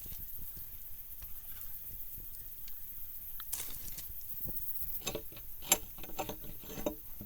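Wood being handled and knocked: faint scattered clicks, then a run of sharper knocks and clatter about five seconds in, as stubs are knocked off.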